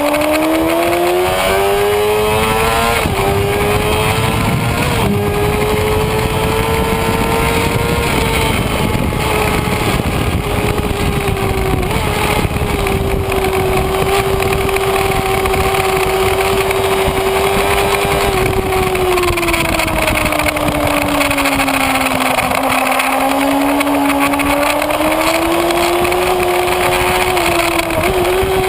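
Kawasaki Ninja ZX-6R inline-four engine heard onboard over steady wind rush: it revs up hard with two quick upshifts in the first few seconds, holds an even note at speed, eases off about two-thirds of the way through, then pulls up again and drops back near the end.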